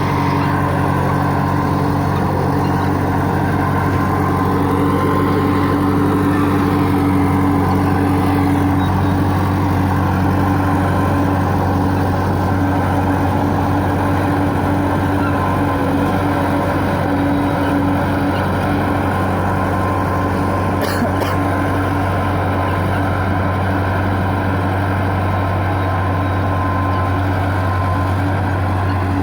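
Heavy machine's diesel engine running at a steady speed, with a deep, unchanging hum. One brief click about two-thirds of the way through.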